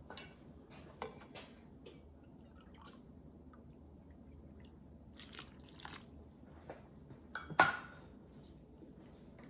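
Kitchen clatter while mixing batter: scattered light clinks and knocks of dishes, glass and utensils, with one louder clunk about seven and a half seconds in.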